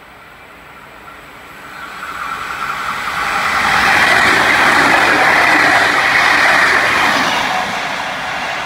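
NSW TrainLink V-set double-deck intercity electric train passing at speed: a rush of wheel-on-rail noise that builds from about two seconds in, is loudest in the middle, then fades as the train draws away.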